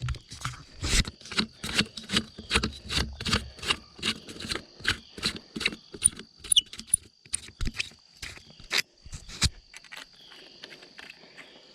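Footsteps, uneven steps about three a second that stop about nine and a half seconds in, over a steady high trill of insects.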